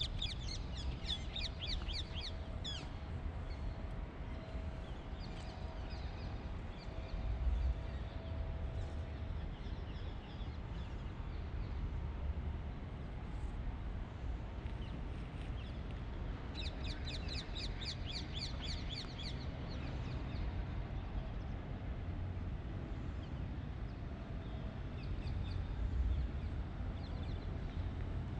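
A bird's chattering call: a quick run of short, high, falling notes, heard twice, once at first and again about two-thirds of the way through, over steady outdoor background noise.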